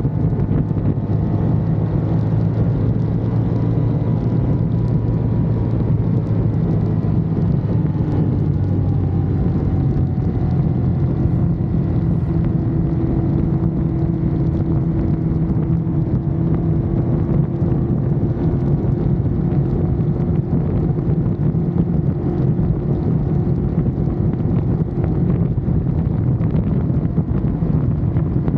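Ducati Monster's V-twin engine running steadily under way, mixed with wind buffeting the microphone. The engine pitch dips slightly about eight seconds in, then holds steady.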